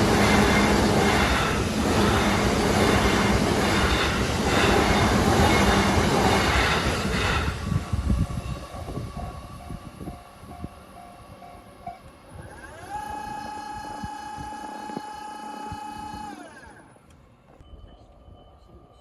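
JR Chūō Line train passing close by over a level crossing, with loud wheel clatter over the rail joints that dies away about seven or eight seconds in. Afterwards a faint pulsing ring is heard, then a steady tone with several pitches held for about four seconds.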